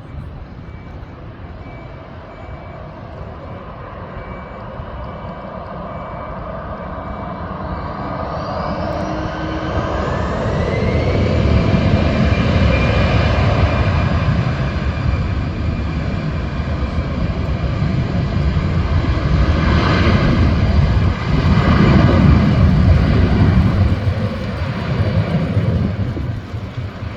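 Airliner's engines growing steadily louder, with a whine that rises in pitch about eight to eleven seconds in, then running loud and steady over a deep rumble.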